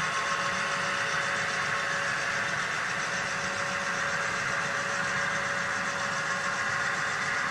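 Model train running on the layout: a steady mechanical hum with a constant thin whine, unchanging throughout.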